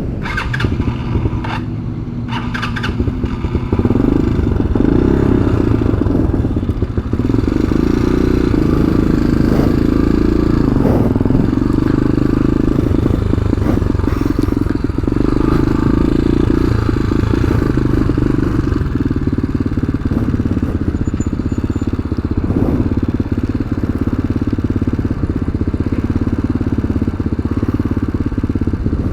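Tao Tao TBR7 dual-sport motorcycle engine running, with a few sharp clicks in the first three seconds. From about four seconds in it gets louder and holds a steady drone as the bike rides on.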